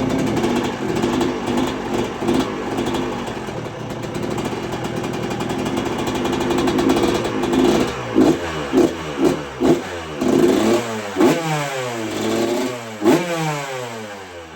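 Yamaha YZ125 single-cylinder two-stroke dirt bike engine, fitted with a new head pipe, running steadily. From about eight seconds in it is revved in a string of quick blips, each rising and falling in pitch, then it fades near the end.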